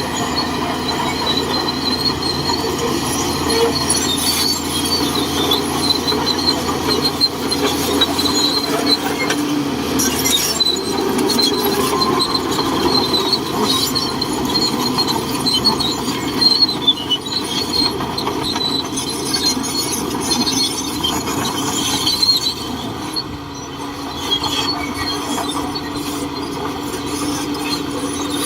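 Shantui DH17C2 crawler bulldozer working, its engine running under a continuous high metallic squeal from the moving tracks and undercarriage, with changing grinding noise.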